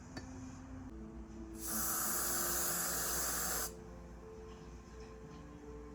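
A steady spray-like hiss that starts about one and a half seconds in, lasts about two seconds and stops abruptly, over faint background music.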